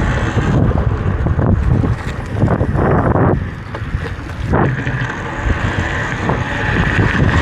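Wind buffeting the microphone of a rider on a moving electric dirt bike, a loud, steady rumble with a couple of brief surges around three and four and a half seconds in.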